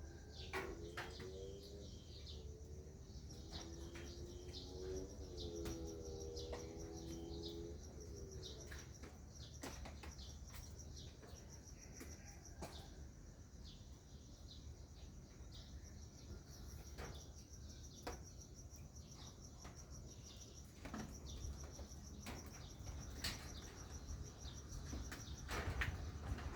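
Birds chirping and calling with short, sharp notes over a steady, high insect drone. A low, wavering pitched sound runs through the first eight seconds or so.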